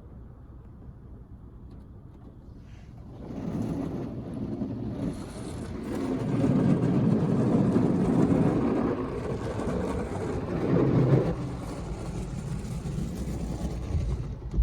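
D&S IQ 2.0 soft-touch in-bay car wash at work on a car: a low steady hum, then about three seconds in the wash noise of spraying water and machinery swells up, loudest in the middle and easing slightly near the end.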